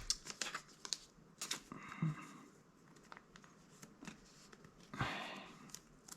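Trading cards being handled and flipped through from an opened booster pack: soft scattered clicks and brief rustles, with a little more rustling about a second and a half in and again near five seconds.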